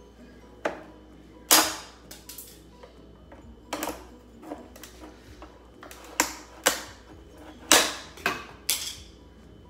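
Brittle plastic of a Honda S2000 tail-light lens cracking and snapping as it is pried and broken away from the housing: a series of about nine sharp, irregular cracks, some in quick pairs.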